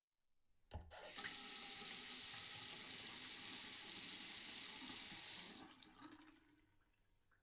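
Water tap turned on with a click and water running steadily into a sink for about four and a half seconds, then turned off, the flow dying away over about a second.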